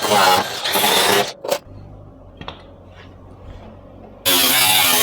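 A hand-held power tool running in two spells: about a second at the start, and again from a sudden start near the end. In between there is a sharp click, then a low hum with a few faint ticks.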